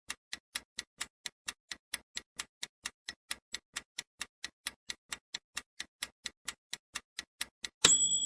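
A countdown-timer sound effect ticking evenly at about four ticks a second. Near the end a bright chime rings out and fades, marking that time is up.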